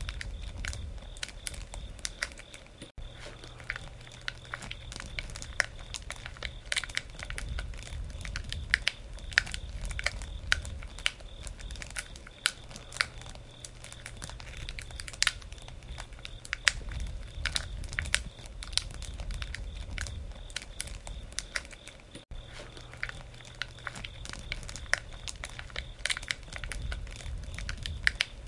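Wood campfire crackling: a steady, irregular run of sharp pops and snaps over a low rumble of burning.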